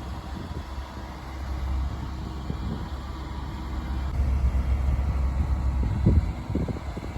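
Low, steady rumble of the 1996 GMC Topkick bucket truck's 7.1-litre gas engine running, with a couple of brief louder flickers near the end.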